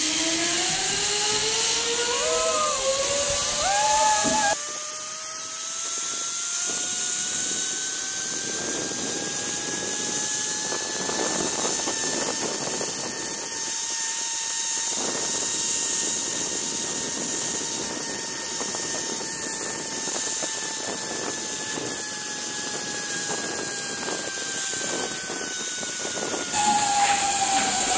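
Zipline trolley pulleys running along the steel cable: a whine that rises in pitch as the rider gathers speed, holds high through the middle of the run and falls again near the end as the trolley slows, over a steady rush of noise.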